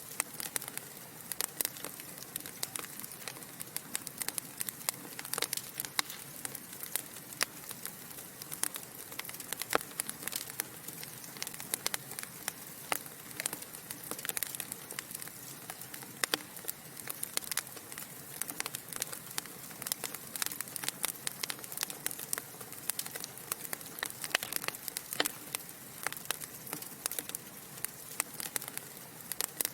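Wood fire burning in a fireplace: logs crackling and popping with frequent sharp, irregular snaps over a steady soft hiss.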